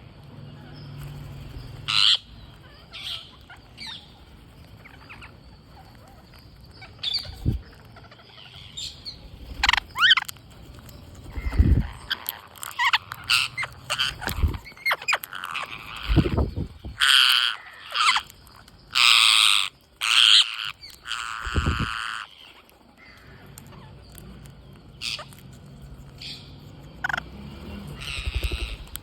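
Green parrots giving short, harsh squawks and calls, sparse at first, then crowding together loudest in the middle before thinning out again. A few low thumps are heard among the calls.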